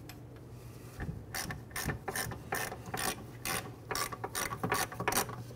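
Hand ratchet clicking in short repeated strokes, about two to three a second, starting about a second in, as it runs in the bolts that mount a rear wheel hub and bearing assembly.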